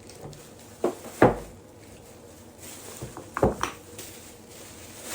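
Grocery items being handled and set down on a hard surface: a few sharp knocks, the loudest about a second in and a pair about three and a half seconds in.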